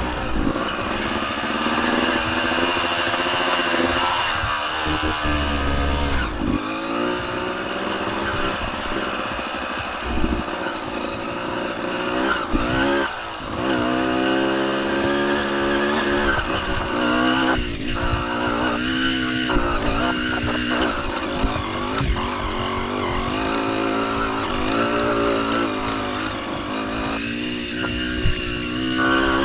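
Dirt bike engine being ridden, its pitch rising and falling many times as the throttle is opened and closed.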